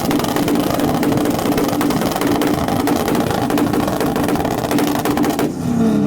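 Car engine held at high revs with a fast flutter, its pitch steady, then revs dropping away about five and a half seconds in.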